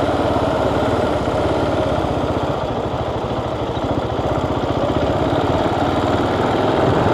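Motorcycle engine running steadily while riding, easing off slightly about three seconds in and picking up again toward the end.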